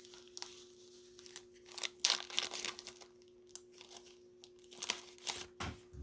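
Trading cards and plastic card sleeves being handled: short bursts of crinkling, scraping rustle, loudest about two seconds in and again near five seconds, over a faint steady hum.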